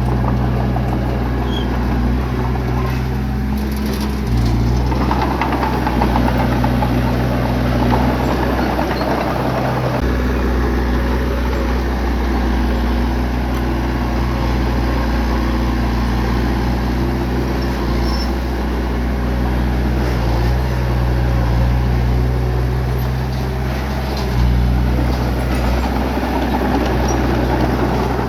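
Bulldozer's diesel engine running, its pitch and load shifting several times as it works, with louder noisy stretches about five seconds in and again near the end.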